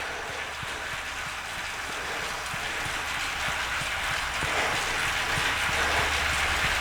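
Steady rushing noise in the indoor-cycling room, slowly getting louder, with a few faint light ticks and a low hum underneath.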